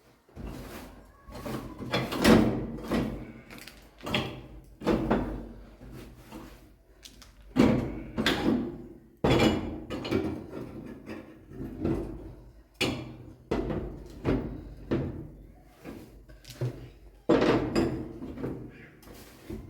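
An irregular series of knocks and thuds, roughly one or two a second, each trailing off in a short scraping rustle.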